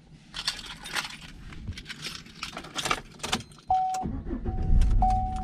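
Car keys jangling, then a car's warning chime starts pinging about every second. Just after the chime begins, a low engine rumble comes in.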